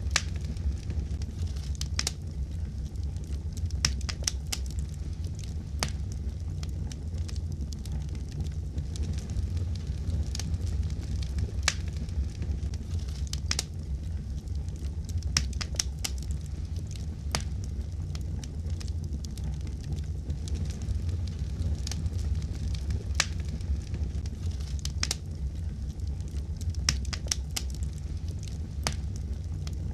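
Wood fire crackling, with irregular sharp pops and snaps, several a second, over a steady low rumble of the flames.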